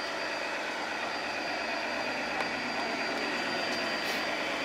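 Radio-controlled scale model trucks running: a steady mechanical hum and hiss with a thin, high, constant whine.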